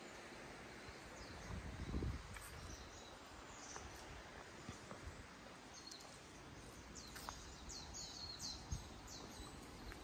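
Small birds chirping, with a quick run of short, high, falling chirps about seven seconds in, over steady outdoor background noise. Two soft low thumps, about two seconds in and near the end.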